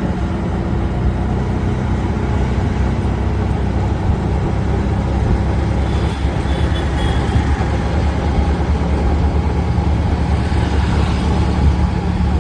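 Road traffic: vehicle engines running steadily with a deep rumble.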